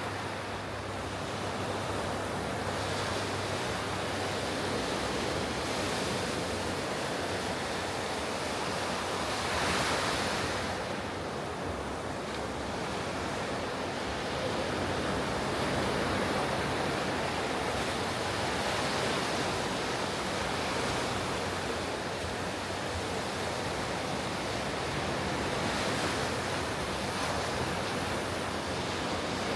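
Ocean surf washing onto a beach: a continuous rush of breaking waves that swells louder about ten seconds in, again around sixteen seconds, and near the end.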